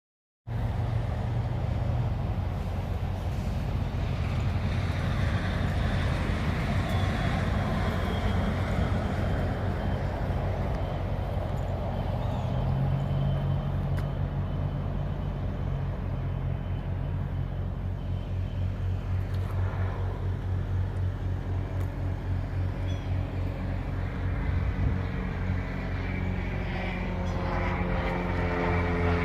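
Semi-truck diesel engine running steadily, with a rhythmic pulse, its pitch rising near the end as the truck speeds up.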